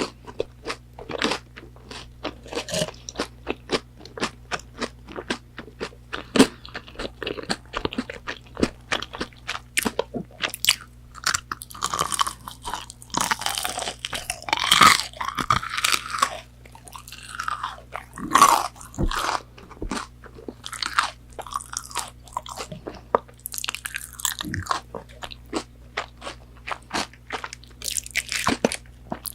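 Close-miked eating of crispy fried McDonald's chicken nuggets: many sharp, irregular crunches and bites with chewing between them, denser and noisier for a few seconds near the middle.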